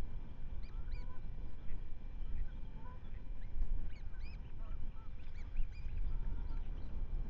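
Birds giving many short, repeated, arching calls in quick succession over a steady low rumble.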